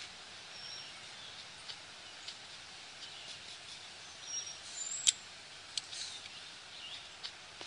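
Faint outdoor ambience with a few short, high bird chirps and scattered light ticks, and one sharp click about five seconds in.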